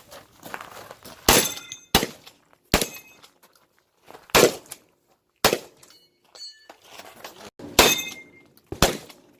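Shotgun shots during an IPSC shotgun stage, about seven at uneven intervals, several followed by the ringing of struck steel targets.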